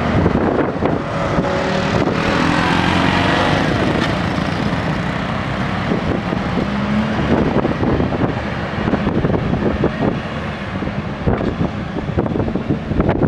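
Diesel engine of a SANY SAG160-5 motor grader running steadily while it grades soil, its note shifting in pitch a few seconds in. Wind buffets the microphone.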